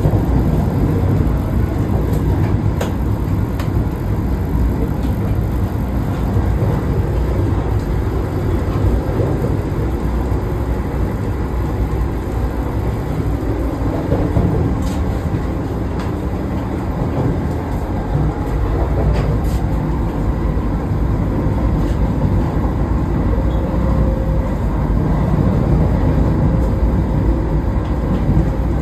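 Vande Bharat Express electric train running: a steady low rumble and rush of a moving train.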